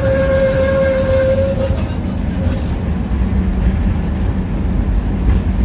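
Tram running on its rails, heard from inside the car: a steady high whine with hiss above it fades out about two seconds in, leaving the low rumble of the car rolling.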